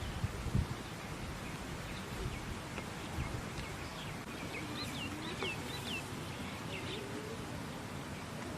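Rural outdoor ambience: a steady background hiss, with a quick run of short bird chirps about halfway through.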